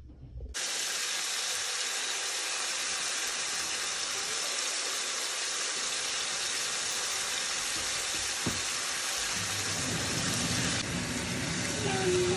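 Raw chicken pieces sizzling in hot oil in a pan. The sizzle starts suddenly about half a second in as the chicken goes into the oil, then holds steady while it is stirred, with a single knock about two-thirds of the way through.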